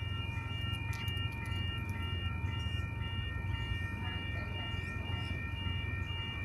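Sydney Trains H-set (Oscar) electric train at the platform: a steady low hum from the train, with a high tone beeping on and off about twice a second.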